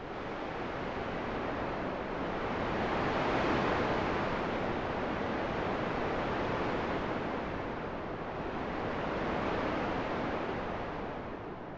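Wind blowing in slow gusts, a steady rushing noise that swells and eases, loudest about three and a half seconds in and again about nine seconds in.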